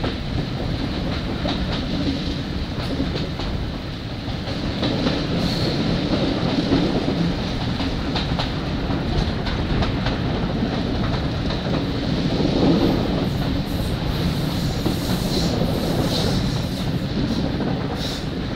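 Railway coach running along the line, heard from an open window: a steady rumble of wheels on the rails with a clickety-clack of rail joints.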